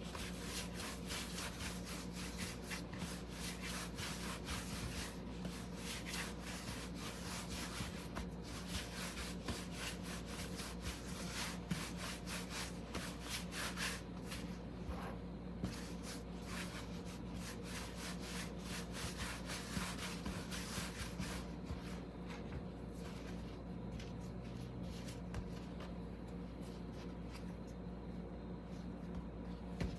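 Wooden rolling pin rolling out hot-water dough wrappers on a board: continual rubbing strokes, which grow softer in the last third.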